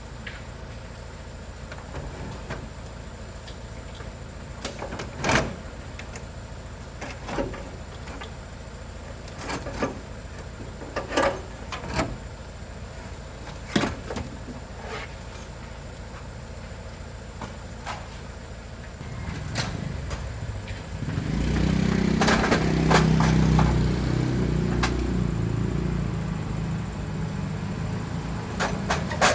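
Scattered knocks and clunks, then about two-thirds of the way in a motor starts and runs with a steady low drone.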